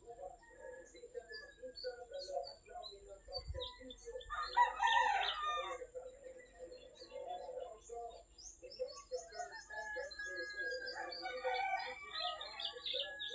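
A rooster crows once, about four seconds in, over small birds chirping and twittering throughout.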